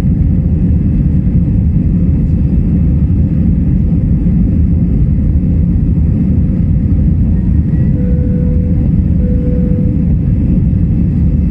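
Steady low rumble of an Airbus A321-200's engines and airflow, heard inside the economy cabin.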